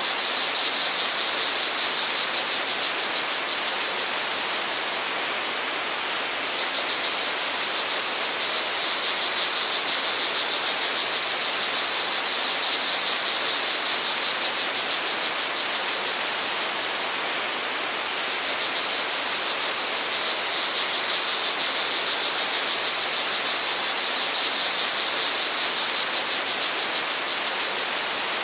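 Steady rush of a stream or waterfall, with crickets trilling in long spells, falling silent briefly about four seconds in and again about halfway through.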